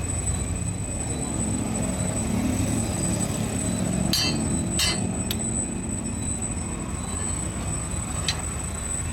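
Steady low drone of workshop machinery running, with a few sharp metal clanks: a cluster about four to five seconds in and another near the end.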